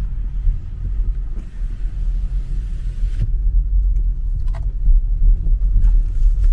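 Car cabin noise while driving: a steady low rumble of tyres and engine, with a few faint ticks in the second half.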